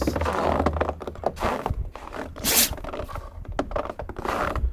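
Irregular scraping and rustling noises, with one louder scrape about two and a half seconds in.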